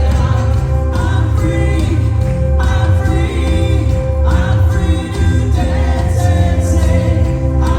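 Live worship music: a congregation or choir singing a gospel praise song over a band with heavy bass.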